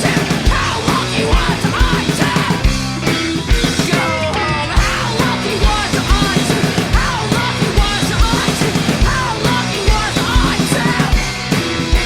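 Live punk rock band playing: drum kit with a steady kick beat, distorted electric guitars and bass, with yelled vocals.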